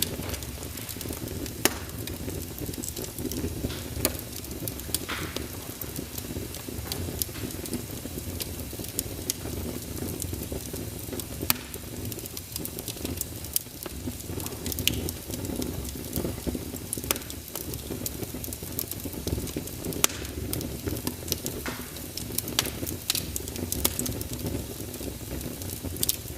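Wood fire burning in a fireplace: a steady low rumble and hiss of the flames with irregular sharp crackles and pops from the burning logs.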